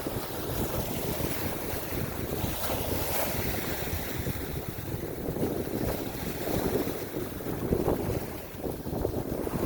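Wind buffeting the microphone over the rush of waves: a rough, uneven noise that swells and eases every second or so.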